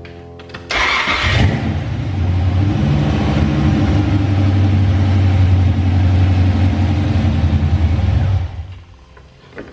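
1985 Corvette's 5.7-litre L98 V8 starting almost at once about a second in, running steadily for about seven seconds, then stopping near the end. It starts on the freshly installed battery.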